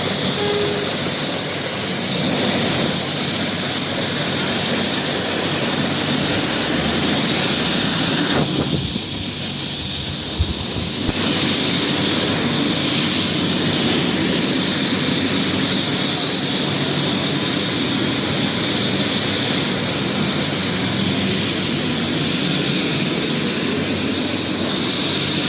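Air ambulance helicopter running steadily: a continuous high turbine whine over the dense noise of the rotor.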